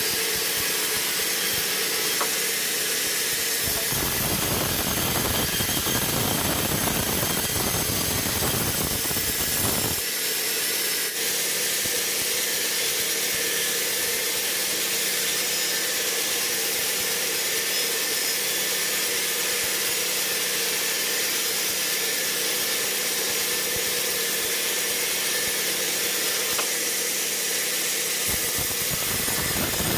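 Sawmill machinery running with a steady hissing noise. A heavier, rough low rumble joins in from about four seconds to ten seconds in, and again near the end.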